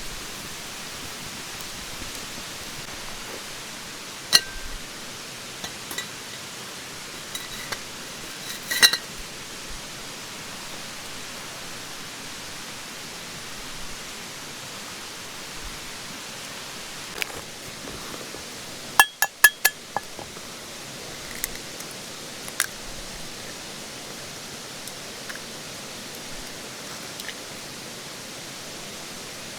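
Steady rush of a mountain stream, with scattered light clinks and taps, including a quick run of four sharp clinks about two-thirds of the way in.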